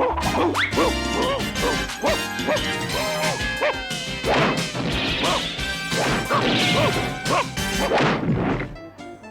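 Cartoon slapstick commotion over background music: a quick run of short yapping dog barks, then several loud crashes of things smashing in the second half.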